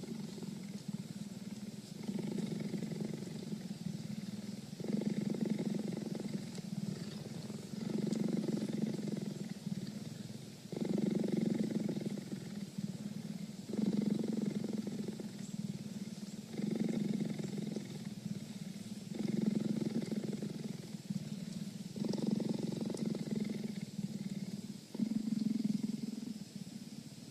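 Cheetah purring continuously, the purr swelling and easing with each breath, a new swell about every two and a half to three seconds.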